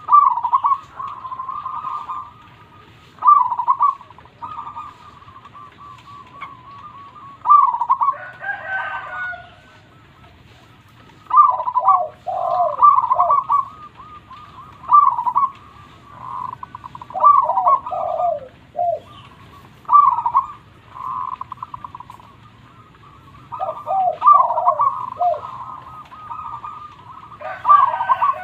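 Zebra doves (perkutut) cooing: phrases of quick stuttering notes that recur every few seconds, some ending in a run of lower notes.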